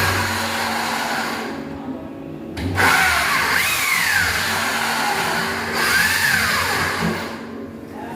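A small motor, likely a power tool, running loudly, its pitch rising and falling twice as it speeds up and slows down.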